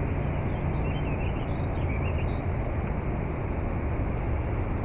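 Steady low rumbling background noise with a few faint high chirps and a single light click.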